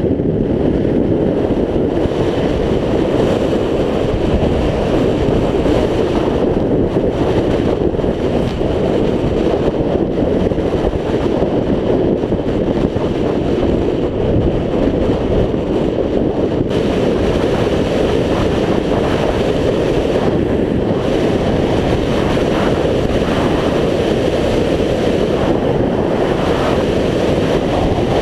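Steady, loud wind noise buffeting a helmet-mounted GoPro's microphone while riding a scooter, a dense low rumble that barely changes.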